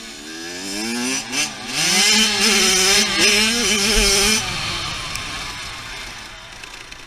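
Dirt bike engine revving up as the bike accelerates and holding high revs for a couple of seconds. About four and a half seconds in the throttle comes off and the sound fades away.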